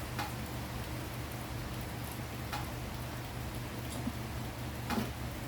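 Steady rain falling, with three separate sharp drip-like ticks spaced about two seconds apart.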